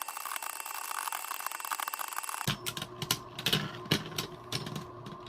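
Two Beyblade Burst tops spinning and scraping against each other in a plastic stadium, heard as a dense, fast rattle in sped-up footage. About two and a half seconds in, the sound switches abruptly to normal-speed audio with scattered sharp clicks of the tops knocking together.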